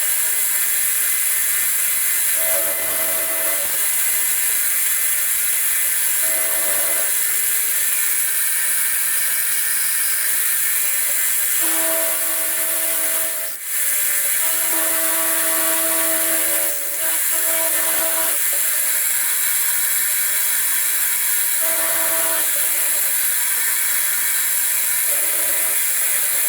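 Milling machine with a 1/2 inch end mill cutting a block: a steady loud hiss with a pitched squeal that comes and goes several times, dipping briefly twice in the middle.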